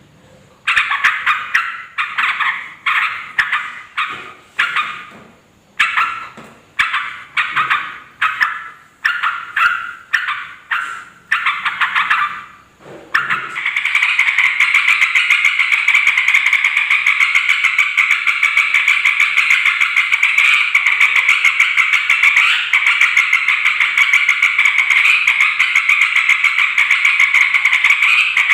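Yellow-vented bulbul (trucukan) calling: a string of short, bubbly phrases about once a second. About halfway through, these give way to a continuous rapid chattering that carries on steadily.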